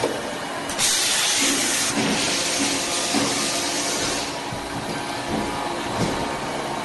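Automatic beam clamp drilling and threading machine running, with a steady hum and soft knocks roughly every half second. A long hiss starts about a second in and lasts about three seconds.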